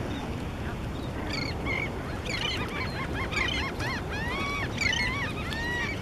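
Several birds giving short, arching calls in quick overlapping runs from about a second in, over a steady wash of wind and water.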